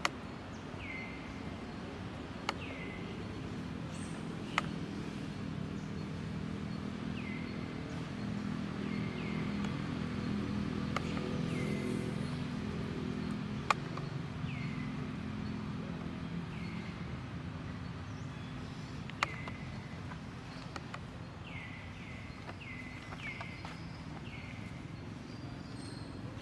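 Short chirps, each falling in pitch, repeated many times at irregular intervals, over a low rumble that swells about halfway through, with a few sharp clicks.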